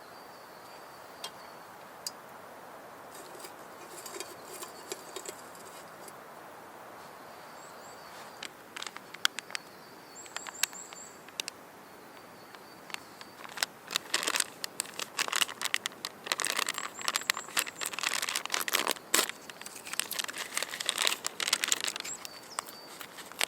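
Wood campfire crackling and popping with sharp, irregular snaps: sparse at first, busier from about halfway, and dense through the second half. Faint, high, short chirps repeat in the background.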